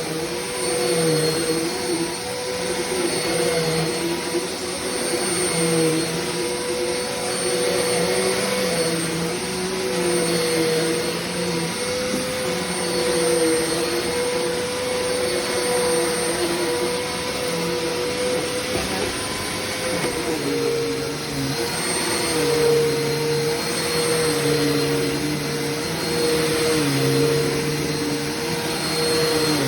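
Hoover Complete Performance bagged vacuum cleaner running continuously, a steady motor whine whose pitch wavers slightly, dipping about twenty seconds in.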